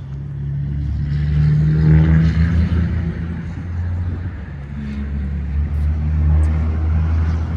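Mercedes-Benz E350's 3.5-litre V6 engine running steadily.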